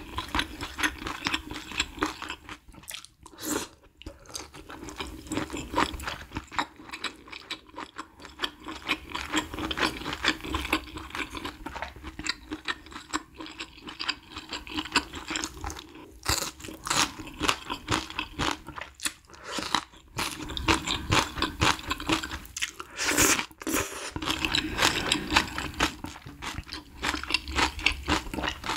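Close-miked chewing and crunching of coriander kimchi and malatang: a dense run of crisp, wet crunches with a couple of short pauses.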